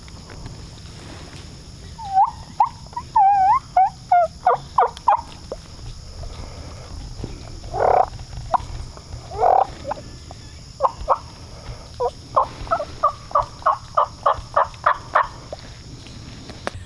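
Turkey yelping: a run of short, evenly spaced yelps about two seconds in, two longer, louder notes around the middle, then a longer run of about a dozen yelps that speeds up near the end.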